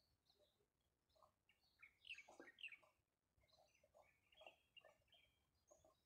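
Faint bird chirps and calls, several scattered short notes, with the clearest a quick run of high chirps about two seconds in.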